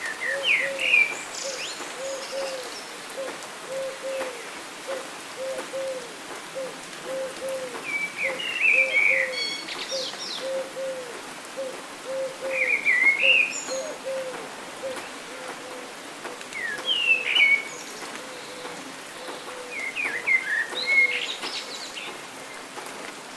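Pet parrot chirping and whistling in short bursts of quick up-and-down notes, about every four seconds. Underneath runs a steady string of short, low repeated notes, two or three a second, and a constant hiss.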